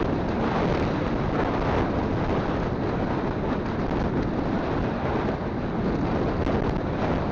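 Wind buffeting the phone microphone on a moving motorcycle, a steady rushing noise with the motorcycle's running and road noise beneath it.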